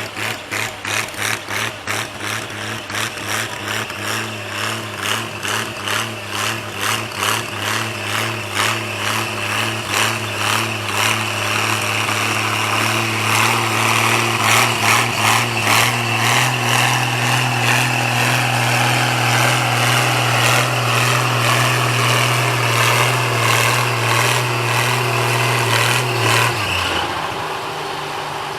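Antique gas farm tractor engine running hard under load while pulling the sled. Early on its loudness pulses in a quickening rhythm, the pitch steps up about halfway through, and near the end the engine drops in pitch and quietens as it is throttled back.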